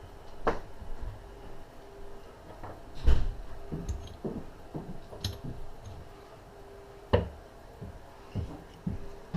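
Hand tools and small metal engine parts clinking and knocking during motorcycle engine disassembly: about eight separate sharp knocks, the loudest about three seconds in, over a faint steady hum.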